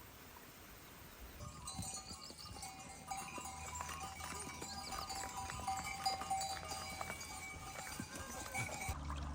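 Bells on grazing livestock ringing irregularly, with the flock's calls mixed in, starting about a second in.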